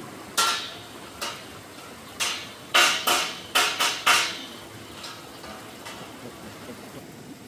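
Irregular metallic clanks and knocks, about eight sharp strikes with a short ring after each, most of them bunched together in the middle, then a few faint ticks: metal pieces being struck or handled.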